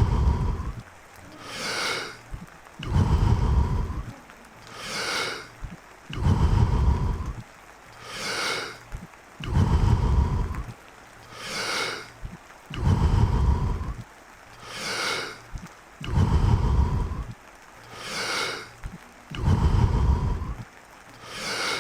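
Deep, forceful breathing in Wim Hof Method breathing rounds: a full breath in and out about every three seconds, each a short hissing draw followed by a longer, louder rush of air, repeating evenly about six or seven times.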